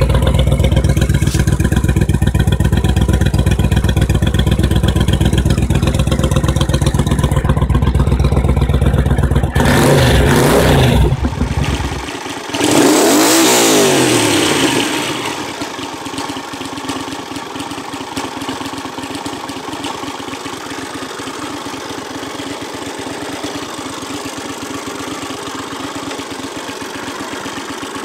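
Honda CX V-twin motorcycle engine and exhaust: it runs steadily for about ten seconds, changes note briefly, then the bike passes by loudly with its pitch falling about twelve seconds in, and for the rest an engine idles steadily and more quietly.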